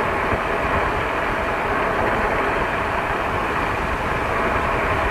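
Steady rush of wind and tyre noise from riding an Amyet S8 electric motorcycle, with uneven low rumbling of wind buffeting the microphone.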